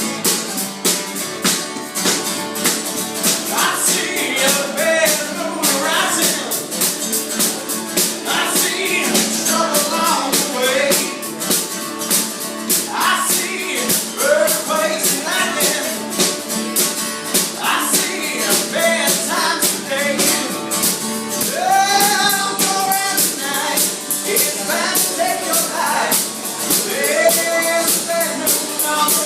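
Live acoustic song: a singer's voice over guitar, with a tambourine or shaker keeping a steady, quick beat.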